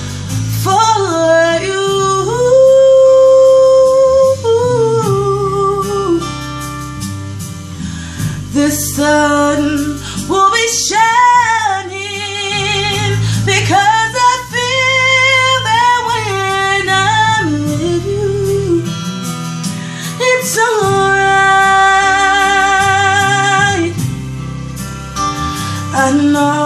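A woman singing a slow ballad over guitar accompaniment, with long held notes and vibrato.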